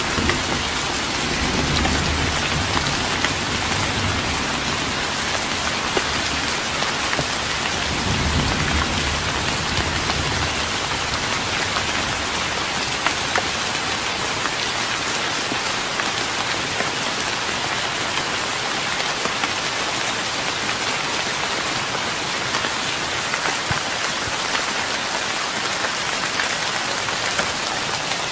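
Steady rain falling on a wooden deck, with a low rumble near the start and again about eight seconds in.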